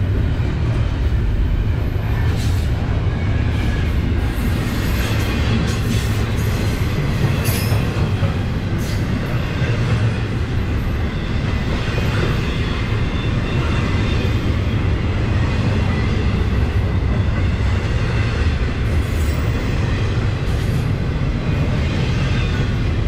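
Double-stack intermodal freight cars rolling past close by: a steady, loud rumble of steel wheels on the rails. Scattered clicks and a few faint, high-pitched wheel squeals ride on top.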